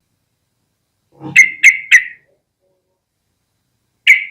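Yellow-vented bulbul singing: a short phrase of three sharp, loud notes about a second in, a pause, then a quicker run of notes starting near the end.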